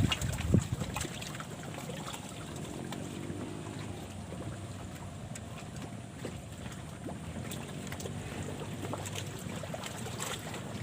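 Strong wind buffeting the microphone in gusts, loudest in the first second, over a steady rush of wind and water lapping on the reservoir.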